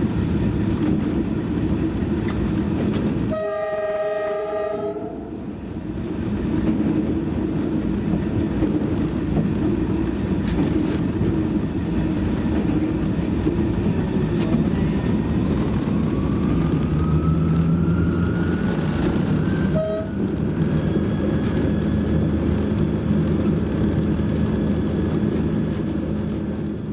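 Train running with a steady low rumble, and a horn sounding briefly a little over three seconds in. A thin whine slowly rises in pitch over the middle of the stretch.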